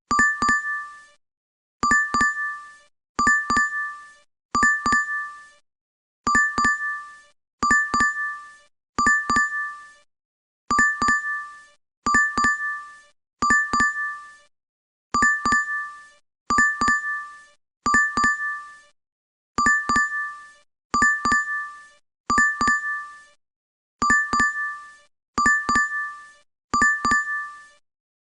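DoorDash app notification chime: a bright two-tone ding, each struck twice in quick succession and fading fast, repeating in sets of three with a short pause between sets.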